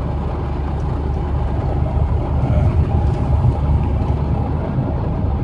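Mitsubishi 4D55 2.3-litre turbo diesel in a Ford Ranger pickup, running with road noise as a steady low rumble, heard from inside the cab, while the cruise control's accelerate button brings the truck up in speed.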